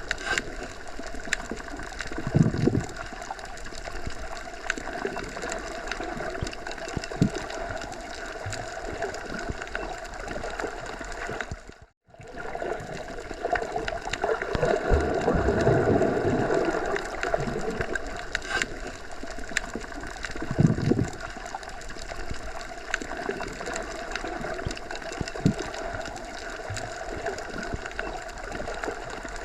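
Forest ambience: a continuous rushing noise with a few brief low thumps. It cuts out for a moment about twelve seconds in.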